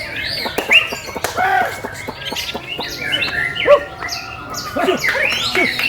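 Several white-rumped shamas (murai batu) singing at once: overlapping whistles, chirps and fast sliding notes, with loud sharp notes about a second in and again around the middle.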